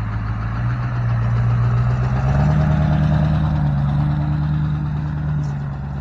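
Truck engine running, its revs stepping up about one second in and again a little after two seconds, then holding steady.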